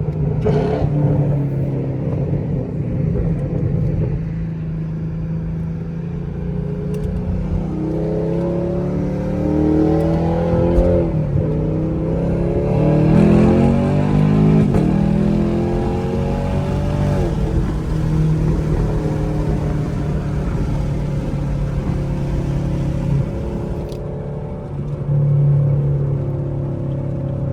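Straight-piped 2017 Camaro SS's 6.2-litre V8 exhaust, heard from inside the car on the move. The engine note holds a steady drone, then climbs and drops in pitch several times through the middle as it accelerates and shifts gears, before settling back to a steady cruise.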